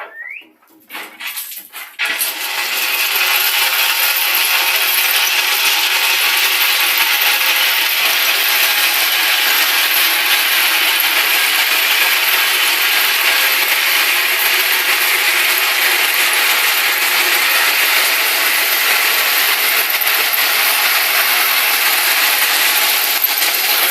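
Ballast train at work: a loud, steady metallic rattling clatter that sets in about two seconds in and keeps on without a break.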